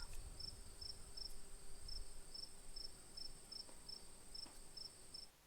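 Crickets: one steady high-pitched trill with a second cricket chirping about three times a second over it, both cutting off abruptly near the end.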